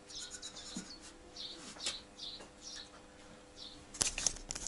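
A small bird chirping repeatedly, short high notes about twice a second, over a faint steady hum. Near the end come loud close-up clicks and rustling.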